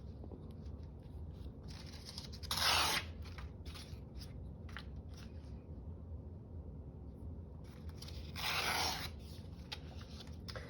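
Paper being handled at a craft table: two short bursts of paper noise about six seconds apart, with faint light ticks between.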